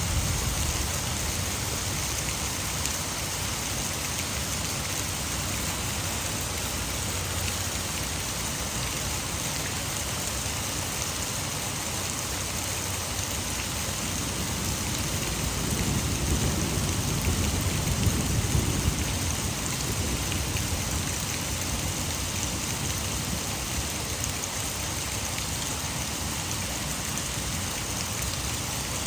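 Heavy rain falling steadily, mixed with the rush of water falling over a hydroelectric dam. About halfway through, a low rumble rises for a few seconds and fades.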